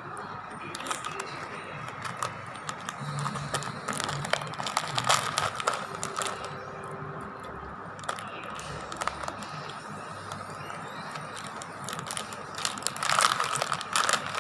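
Eating sounds at a plate of rice and curry: scattered clicks and light clatter, bunched in the first half and again near the end.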